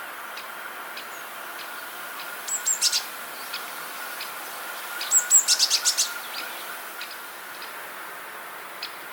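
A small songbird calling: two quick series of high chirps, a short one about two and a half seconds in and a longer one about five seconds in. Faint regular ticking and a steady faint hum run underneath.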